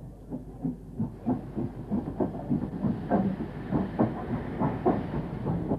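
Steam locomotive exhaust beats: a steady, even chuffing at about three to four beats a second over a low rumble.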